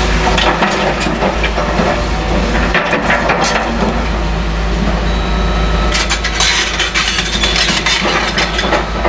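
Caterpillar excavator demolishing: a steady diesel engine rumble under cracking, crushing and clattering of breaking rubble, wood and glass. The heaviest crashing comes about three seconds in and again from about six seconds until near the end.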